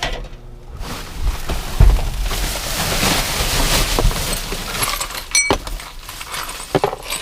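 Rummaging through discarded items in a dumpster: rustling and a dull thump, then a sharp clink of dishware that rings briefly, about five and a half seconds in.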